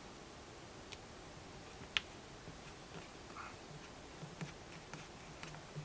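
Small screwdriver working a screw out of a small handheld vacuum cleaner's plastic casing: a sharp click about two seconds in and scattered soft ticks later on.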